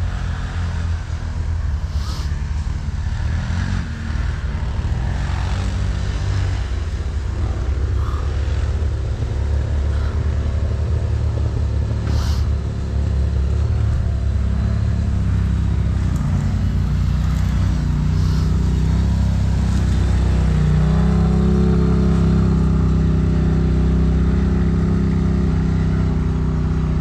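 Off-road vehicle engine running under way, with a steady low rumble. About two-thirds of the way in, the engine note climbs and holds at a higher, louder pitch, and there are a few short knocks along the way.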